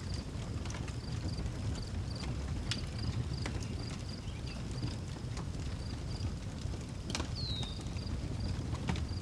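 Wood fire crackling with scattered sharp pops over a low steady rumble, the loudest pop about seven seconds in. A cricket chirps in an even, steady rhythm throughout, and a bird gives one short falling whistle right after that loudest pop.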